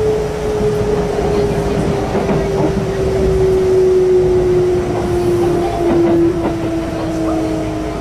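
Kintetsu express train heard from inside a car, its traction motors whining in one steady tone that slides slowly lower as the train slows, over the rumble and occasional clatter of wheels on rail.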